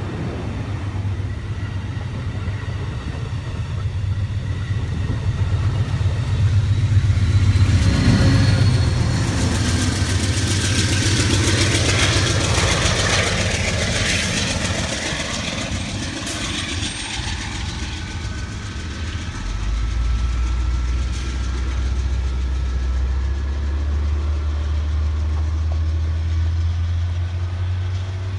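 Amtrak passenger train departing, pushed by a GE P42DC diesel locomotive: a steady diesel engine drone over rolling cars, loudest as the locomotive goes by, before it pulls away working hard enough to throw exhaust smoke. A lower steady hum comes in about two-thirds through.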